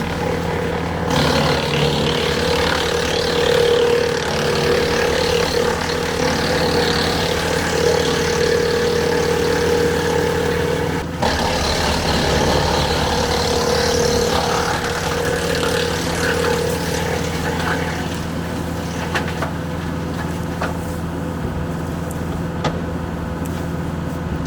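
Kubota L4060 diesel tractor running steadily at speed, driving a Woodland Mills WC68 PTO wood chipper, with a noisy rush over the engine's hum. The sound dips briefly about halfway through, and a few sharp ticks come near the end.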